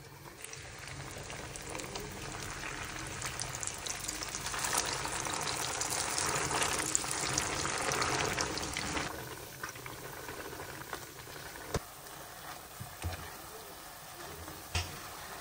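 Ground chana dal paste sizzling as it fries in hot ghee in a pan, loudest in the middle and dropping off suddenly about nine seconds in. A metal ladle then knocks against the pan a few times while stirring.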